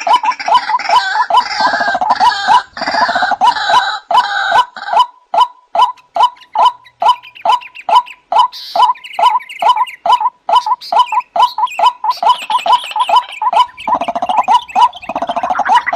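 White-breasted waterhen (ruak-ruak) calling: a fast, steady string of short croaking notes, about three a second. At the start and again near the end a second, harsher layer of overlapping calls joins in, the typical chorus used as a lure call.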